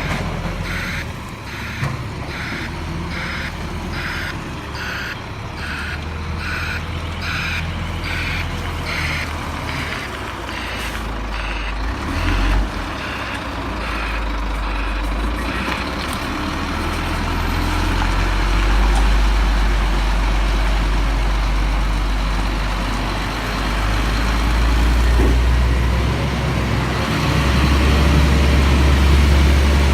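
Scania garbage truck's reversing alarm beeping about once a second, fading out about halfway through, over its diesel engine running. The engine grows louder in the second half.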